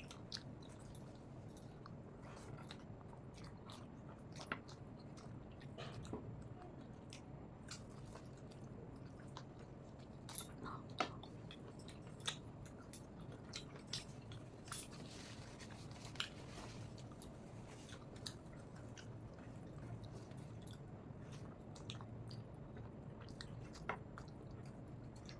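Faint close-up chewing and biting of rice and tough country-rooster (desi chicken) curry, with scattered sharp clicks and crunches over a steady low hum.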